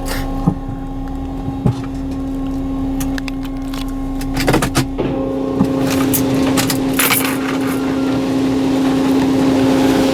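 D&S Odyssey soft-touch automatic car wash running, heard from inside the car: a steady machine hum with scattered clicks and knocks, and bursts of hissing spray that build toward the end.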